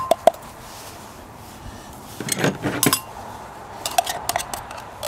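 Can of black beans being poured out into a bowl: the metal can clinks and knocks against the bowl, a few sharp clinks with a brief ring at first, then a cluster of knocks about halfway through and more clicks near the end as the beans are shaken out.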